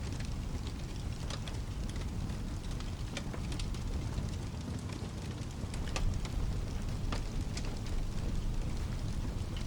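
Wood fire crackling with scattered sharp pops, over steady rain and a low rumble that swells slightly about six seconds in.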